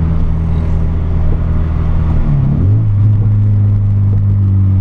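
VW Golf Mk3 engine running through an exhaust with no catalytic converter and no intermediate muffler, heard from the cabin as a loud, steady drone at constant revs. A little over two seconds in, the pitch dips briefly and then settles higher and holds steady again. The drone is the exhaust resonance, strong enough to make the dashboard buttons vibrate.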